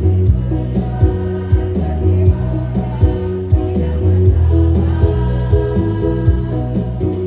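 A senior citizens' choir singing over an arranged musical accompaniment with a steady beat and heavy bass.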